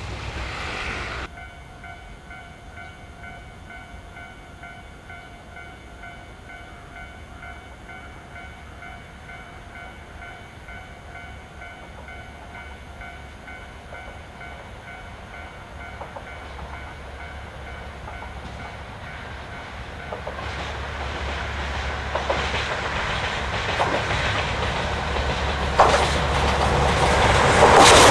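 Diesel freight train approaching, its engine and wheel noise growing steadily louder over the last several seconds, with a sharp knock shortly before it reaches its loudest.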